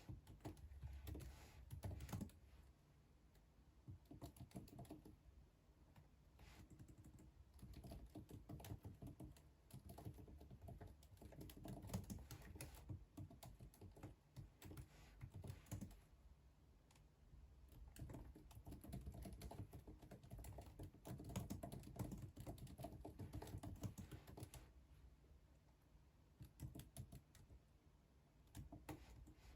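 Soft typing on a computer keyboard: runs of rapid key clicks broken by a few short pauses.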